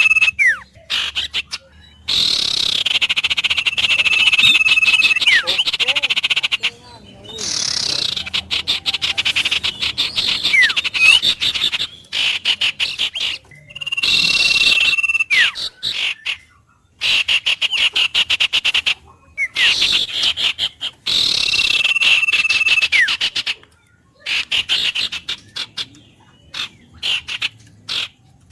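Frog chorus: bouts of dense, high steady calling a few seconds long recur about every six seconds, with rapid clicking croaks between them and a few short chirps.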